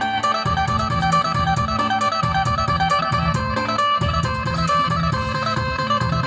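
Isan phin, a Thai plucked lute, playing a quick repeating melody over a bass line and a steady percussion beat.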